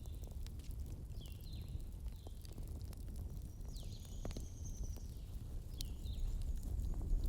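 Wood fire burning with a steady low rumble and scattered sharp crackles and pops. A few short, high, falling chirps sound over it.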